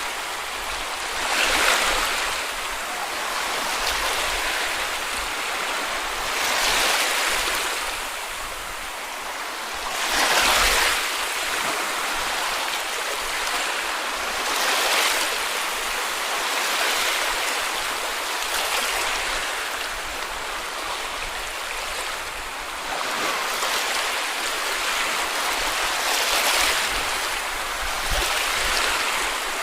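Small sea waves breaking and washing up on a beach, swelling and falling back every few seconds, with the loudest wave about ten seconds in.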